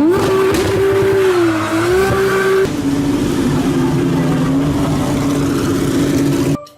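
Racing car engine at high revs after a fast rev-up, its pitch wavering and then dropping to a lower steady note a little under three seconds in. The sound cuts off suddenly near the end.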